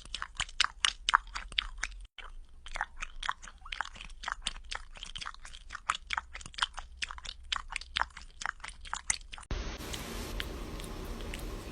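A cat chewing and crunching food, with quick crunches several times a second. About nine and a half seconds in, the crunching stops abruptly and a steady hiss with a few faint clicks follows.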